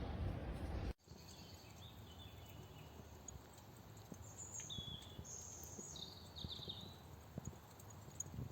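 Louder rushing noise for about the first second, cut off abruptly, then a faint outdoor background with short, high bird chirps scattered through it and a few faint clicks.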